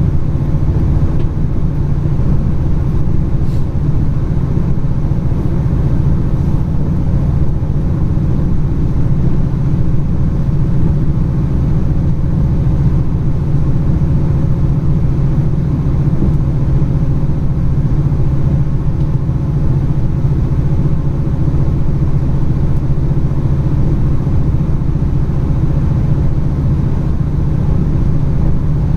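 Steady running rumble of a train, heard from on board, with a constant low hum that does not change.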